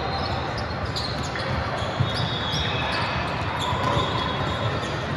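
Court game in a gym hall: sneakers squeak on the floor, with a busy background of voices and movement, and one sharp ball impact about two seconds in.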